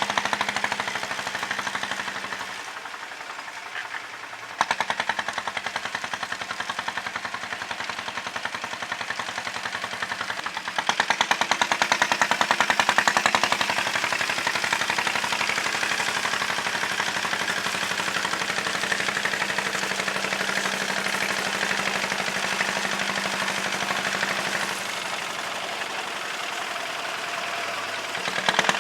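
Tractor engine running with a rapid, even knocking. The loudness changes abruptly several times.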